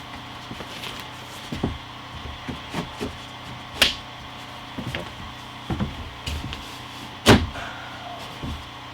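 Wooden knocks and thumps as wall boards are handled and fitted. Two sharp cracks come about 3.5 s apart, the second the loudest, over a steady low hum.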